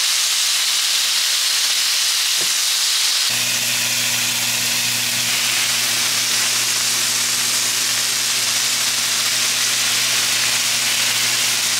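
Food sizzling in a pan: a loud, steady hiss, joined about three seconds in by a low steady hum.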